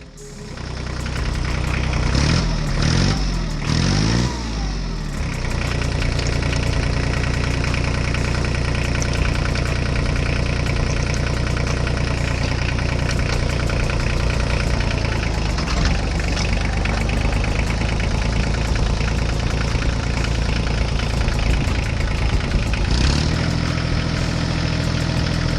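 Tractor engine idling steadily, with its pitch rising and falling in a few quick revs about two to five seconds in.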